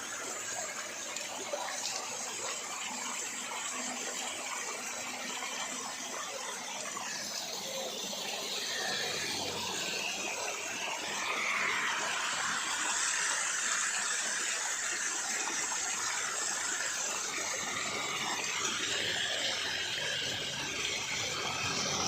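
Spring water running steadily from a pipe in an earth embankment, a continuous splashing gush that grows a little louder partway through.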